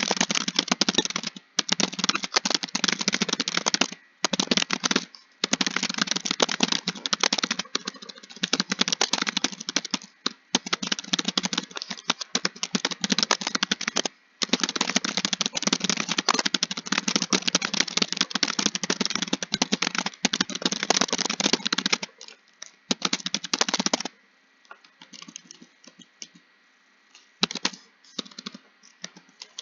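Computer keyboard typing in fast, continuous runs of keystrokes with brief pauses, thinning to a few scattered keystrokes over the last five seconds.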